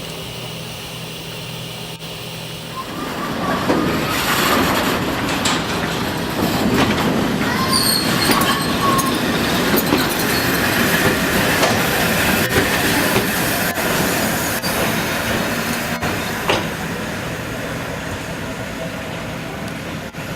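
A train running on the rails: a steady hum at first, then from about three seconds in a loud rumble of wheels on track with repeated clicks and a brief high wheel squeal near the middle, easing off toward the end.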